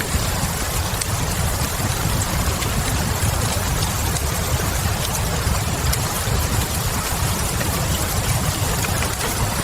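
Steady rain with a deep low rumble under it, mixed with a few faint scattered crackles of a wood fire.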